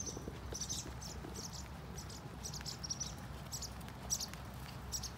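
Small bird chirping repeatedly, short high chirps a few times a second in irregular clusters, over a low steady rumble.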